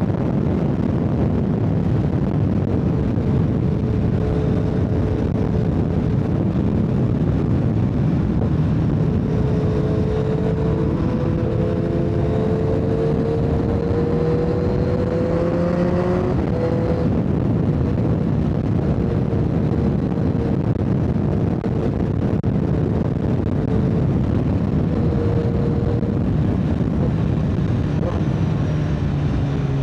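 Motorcycle engine running at road speed under a heavy rush of wind and road noise. Its pitch climbs slowly for several seconds, drops suddenly about halfway through, then holds steady.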